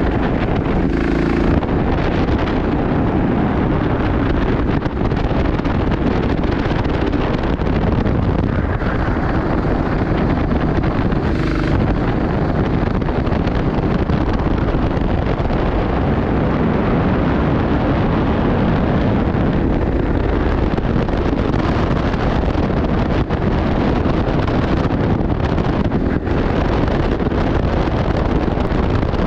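Steady loud wind buffeting on the microphone over a continuous low rumble.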